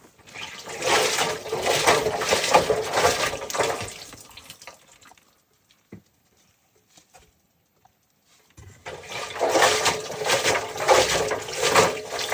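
Miele washing machine running with water in the drum: two bursts of water rushing and sloshing, each about four seconds long, with a pause of about four seconds between them.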